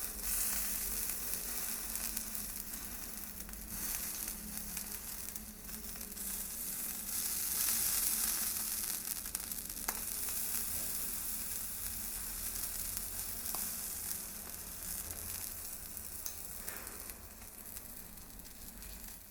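Meat frying in a pan: a steady, dense sizzle with fine crackling and a few sharper pops, swelling a little in the middle and easing off slightly before stopping abruptly at the end.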